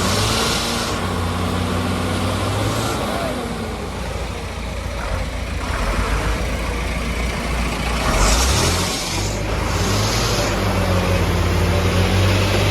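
Diesel engine of a JCB 3DX backhoe loader running under load while loading a truck, its pitch shifting as it works, with short hissing bursts at the start and again about two-thirds of the way in.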